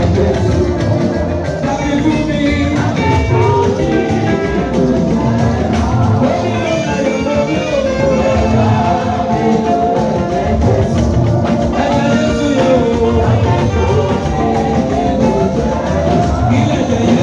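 Church choir singing with instrumental accompaniment, continuous and loud.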